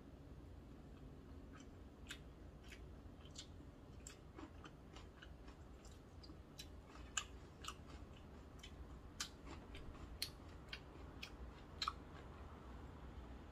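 Close-up chewing of cold buckwheat noodles: quiet, wet mouth sounds with many short, sharp clicks scattered throughout.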